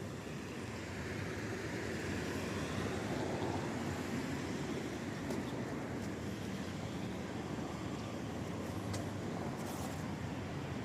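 Steady rain hiss on a wet road, with a vehicle passing on the wet tarmac that swells and fades about one to four seconds in.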